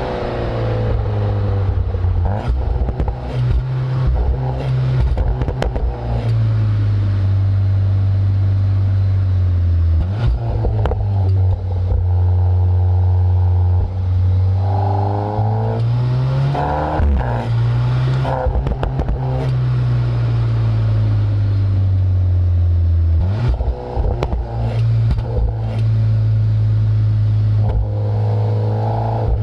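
Exhaust of a Volkswagen Golf R's turbocharged 2.0-litre four-cylinder through an Akrapovič system, heard right at the tailpipes under hard driving. The note climbs and drops repeatedly through acceleration, lifts and gear changes. A few brief sharp cracks come around the changes.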